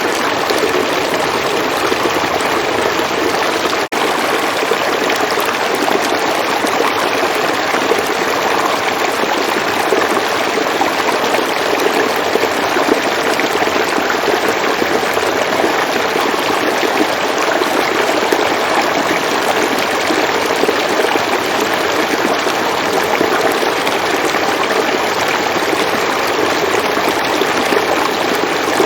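River water flowing steadily in a continuous rushing wash, with one momentary dip in level about four seconds in.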